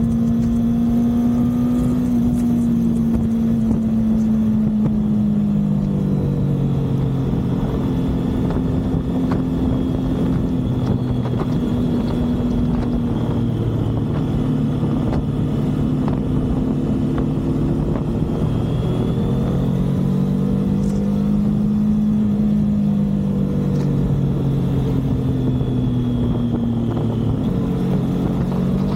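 Motorcycle engine running while riding, its note dropping and rising a few times with throttle and gear changes, over a steady rushing noise.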